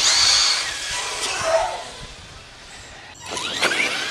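Radio-controlled car motor whining at a high pitch, fading as the car moves away, then rising again in pitch near the end as it speeds up.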